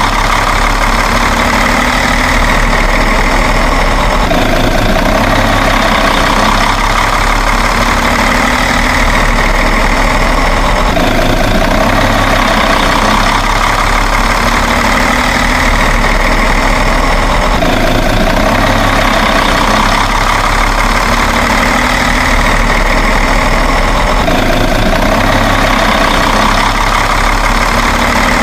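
Steady truck-like engine idling sound that repeats in an even loop about every six to seven seconds.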